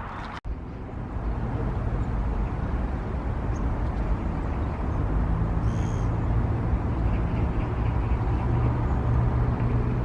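Outdoor background noise with a steady low hum, after an abrupt cut about half a second in.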